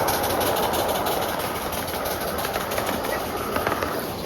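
Small park-railroad train rolling along the track: steady running noise with faint regular clicking of wheels on the rails, easing off slightly.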